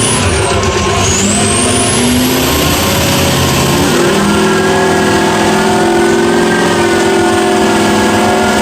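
Mud truck engine revving hard with a high whine climbing in pitch over the first few seconds, then held at high, steady revs.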